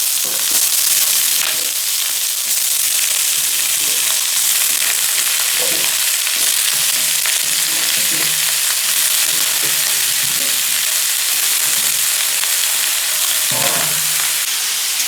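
Dried smoked pork and potato pieces sizzling steadily in hot oil in a pan while being stirred together.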